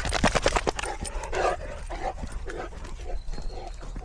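A dog's breathing and vocal noises: short huffs repeating about twice a second, with a burst of rustling and clicks in the first second.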